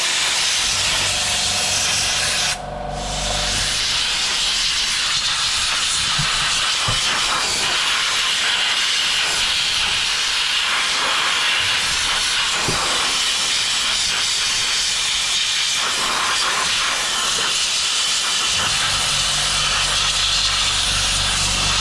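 Abrasive blasting gun hissing steadily as it blasts surface rust off a jet ski engine and roughs up the case for paint. The blast breaks off briefly about two and a half seconds in, and a low hum runs underneath near the start and again near the end.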